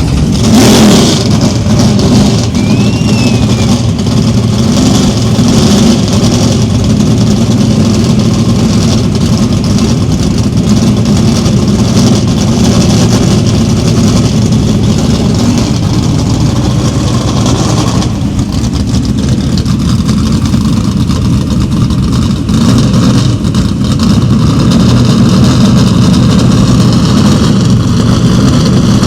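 Two Standard Superstock drag cars, a Dodge Polara and a Plymouth Duster, fired up about half a second in and left running loudly, with revving.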